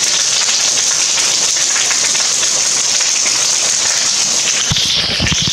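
Heavy downpour of rain, a loud, steady hiss. Low thumps join in near the end.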